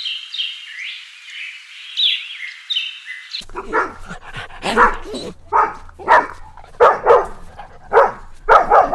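A dog barking repeatedly, about two barks a second, after a short stretch of high-pitched chirping that cuts off abruptly.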